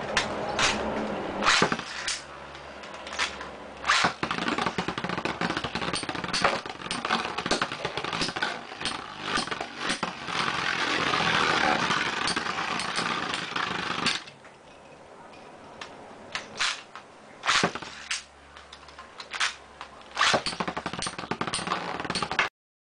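Two Beyblade Metal Fight tops, Virgo 230AS and Tornado Capricorne M145SF, spinning in a plastic Attack Stadium: a steady whirring scrape with repeated sharp clacks as their metal wheels collide. About fourteen seconds in the whirring drops much quieter and the clacks come sparser, until the sound cuts off suddenly near the end.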